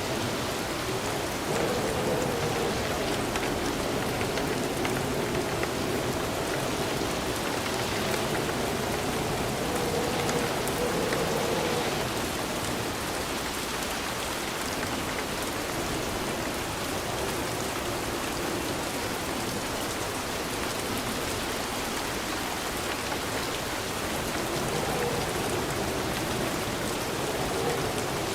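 Steady rain falling, an even hiss with small swells in loudness.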